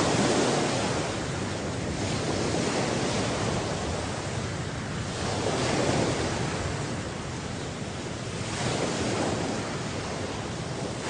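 Sea surf washing onto the shore in a steady rush, with waves surging up three times: at the start, about halfway, and near the end.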